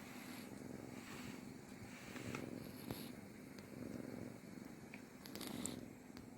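Two-month-old kitten purring, the purr swelling and easing with each breath about every second and a half, with a few small clicks.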